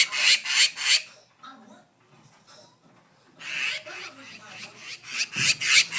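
Bird giving harsh, raspy calls in short runs of quick pulses: three close together at the start, a longer one in the middle, and several more near the end.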